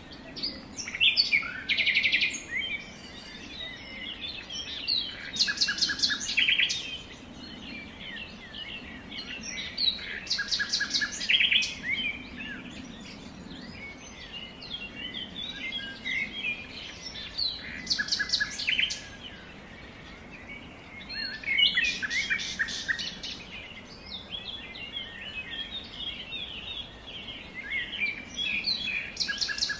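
Birds singing and chirping, with a loud rapid trill every few seconds over a faint low hum.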